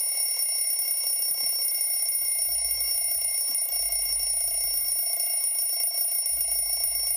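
A bell ringing continuously at an even level, like an alarm-clock bell, with several fixed high tones over a fast jangling rattle, played back as a sound effect.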